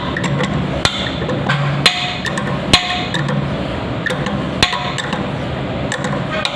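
Irregular sharp clicks and knocks of hard parts being handled and tapped, several a second at times, the loudest a little before two seconds in and near three seconds in, over an intermittent low hum.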